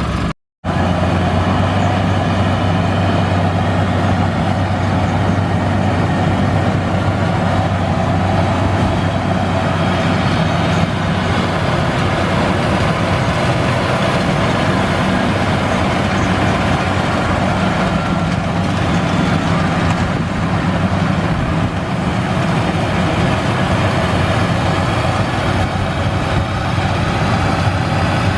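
Combine harvester's diesel engine running steadily, with a constant low drone. The sound drops out completely for a split second just after the start.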